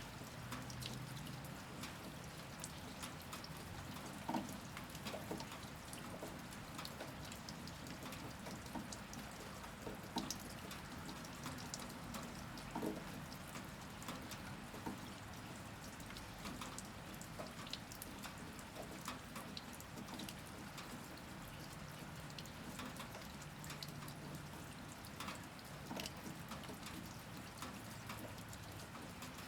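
Steady rain falling, with scattered individual drops dripping and tapping close by.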